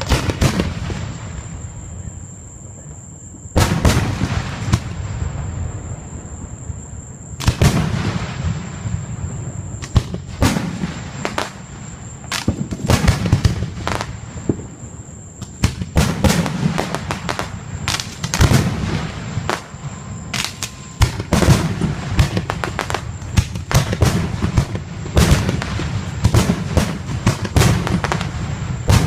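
Fireworks display: aerial shells bursting in a string of loud bangs, each trailed by a low rumble. The bangs come faster and thicker from about halfway through.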